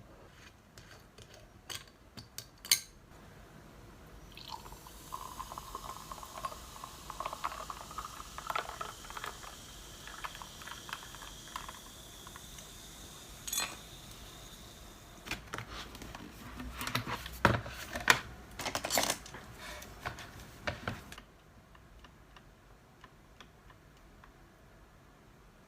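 Liquid poured into a cup or glass, its pitch rising slowly as the vessel fills, followed by a run of clinks and clatter of dishes and cutlery.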